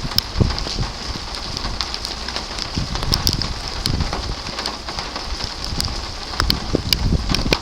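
Rain falling in a severe thunderstorm, with scattered sharp clicks of drops striking a surface and low gusts of wind buffeting the microphone.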